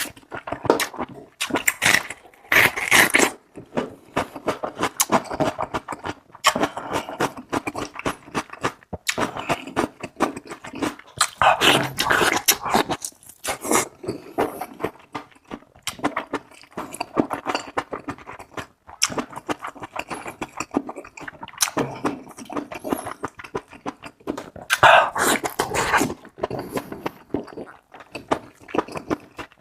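A dog eating tripe: fast, irregular wet chewing and smacking clicks.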